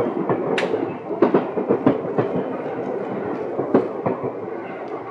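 Seibu 10000 series electric train running, its wheels clacking sharply over track joints several times at irregular spacing above a steady rumble that eases off near the end.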